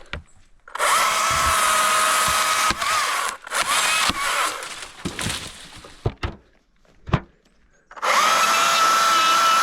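Battery electric chainsaw running with a steady high whine while cutting, stopping and starting again several times. A single sharp knock comes about seven seconds in.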